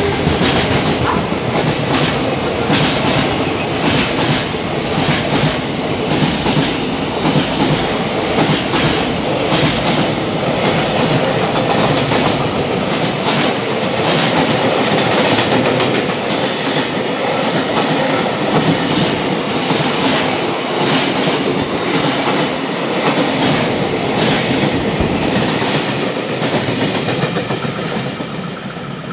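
Freight train wagons passing over rail joints, the wheels clattering in a steady, regular clickety-clack, tailing off near the end as the last cars go by.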